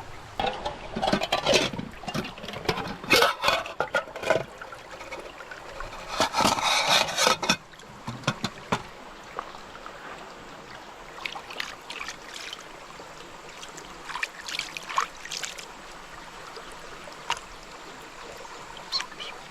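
Flowing stream water as a steady background, with a run of rustling and scraping bursts over the first eight seconds, then only scattered light clicks.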